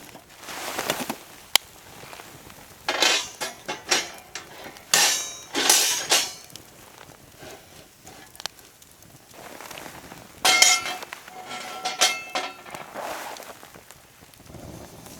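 Metal camp cookware and utensils clinking and clattering as they are handled, in several short bursts. One knock about ten and a half seconds in rings briefly.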